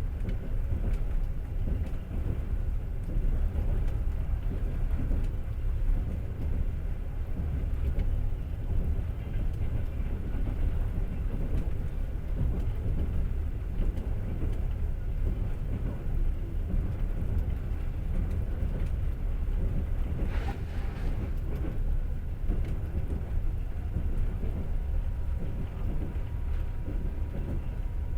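Passenger train running on the rails, a steady low rumble of wheels and carriage heard from inside the car. A brief sharper noise stands out about two-thirds of the way through.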